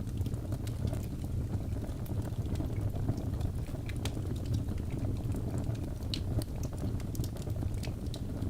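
Birch logs burning in a fireplace: a steady low rumble of the flames with frequent small sharp crackles and pops scattered throughout.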